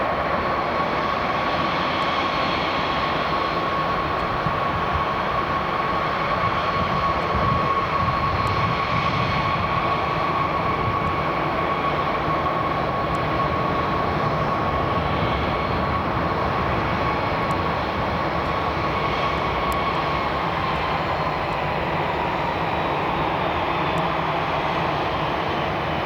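Jet airliner's engines running: a steady rushing roar with a high whine held over it, the whine sliding slightly lower about twenty seconds in.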